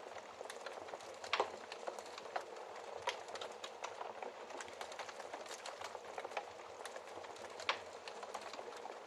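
Wood fire crackling: a steady hiss with frequent small snaps and two louder pops, one about a second in and one near the end.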